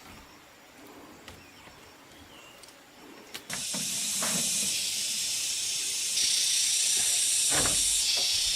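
A steady hiss starts suddenly about three and a half seconds in and gets louder a few seconds later, with a few soft knocks underneath.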